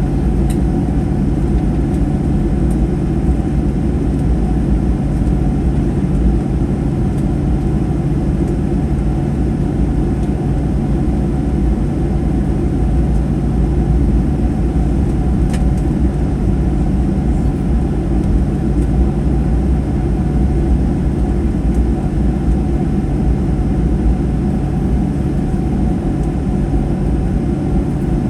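Boeing 737-800 cabin noise in flight: a steady low rumble of airflow and its CFM56-7B engines, with a constant hum.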